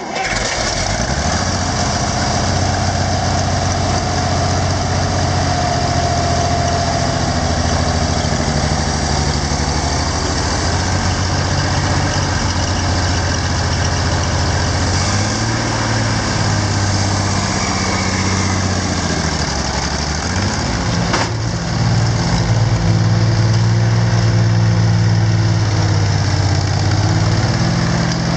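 Oliver 1750 tractor's six-cylinder engine running steadily. About halfway through its speed dips and comes back up, and in the last third it runs a little faster and louder.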